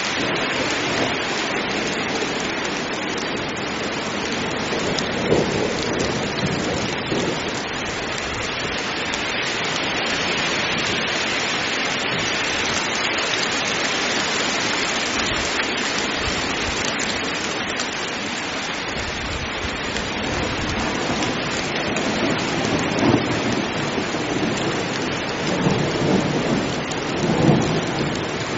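Heavy rain falling steadily, with low rumbles of thunder swelling up about five seconds in and again near the end.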